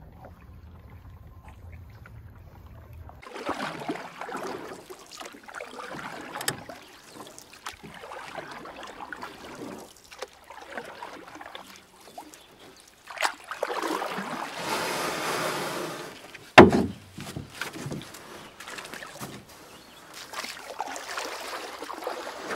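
Water splashing and sloshing around a kayak in irregular bursts. A sharp knock about two-thirds of the way through is the loudest sound.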